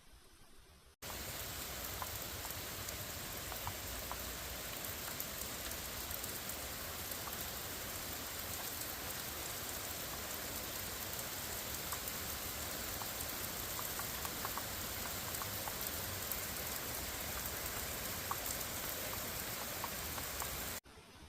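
Steady rain falling, a continuous hiss dotted with the ticks of individual drops; it cuts in sharply about a second in and cuts off just before the end.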